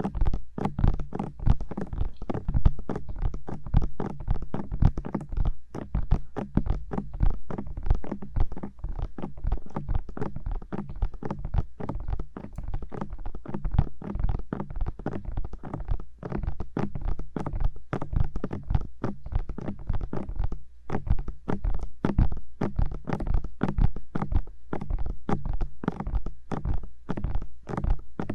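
Fingertips tapping rapidly on the ears of a 3Dio binaural microphone, a dense run of soft thuds and knocks, several a second.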